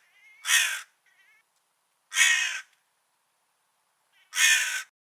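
A crow cawing: three loud, harsh caws about two seconds apart, each about half a second long, with a couple of fainter caws shortly after the first.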